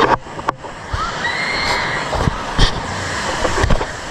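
Water rushing steadily over rocks in a stream or waterfall, with a few sharp knocks and bumps over it.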